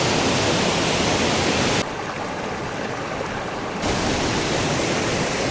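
Waterfall's water rushing steadily. From about two to four seconds in it turns quieter and duller, losing its hiss, then comes back at full strength.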